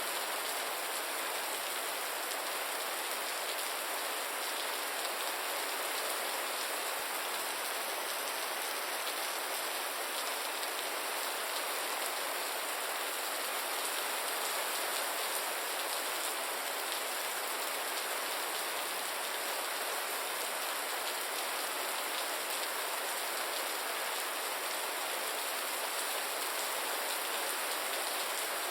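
Steady rain falling and pattering on surfaces, an even hiss with no thunder or other events.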